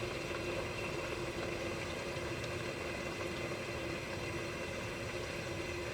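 Pot of sukiyaki simmering, bubbling steadily over a constant low hum.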